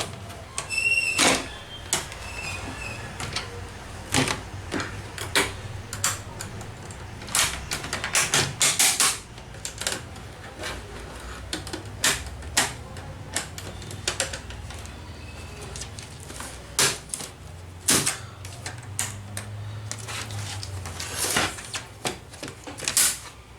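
Plastic palm rest being pried off a Dell Inspiron 15 3000 laptop: its snap-fit clips pop loose in a long series of irregular sharp clicks and snaps, over a faint low hum.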